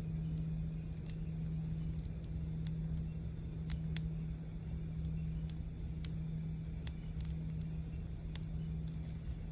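Campfire crackling, with sharp pops scattered irregularly throughout, over a steady low drone.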